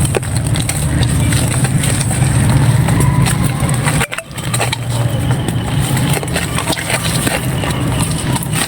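Dry red-sand clay crumbling, a run of crisp crunching crackles over a steady low engine-like hum. The sound briefly drops out about four seconds in.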